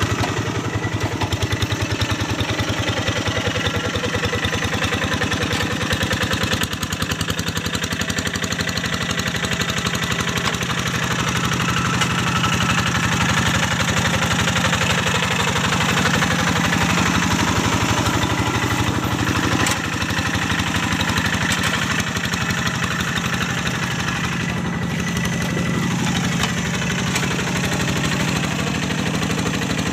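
Kubota single-cylinder diesel engine of a Quick G1000 Boxer hand tractor running steadily under ploughing load, with a fast, even firing beat. The level dips briefly about seven seconds in and again near twenty seconds.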